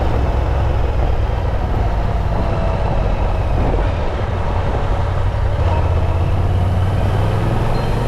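Yamaha Ténéré 700's parallel-twin engine running under way on the move, mixed with loud wind rushing over the microphone. The engine note steadies into a stronger low hum about two-thirds of the way through.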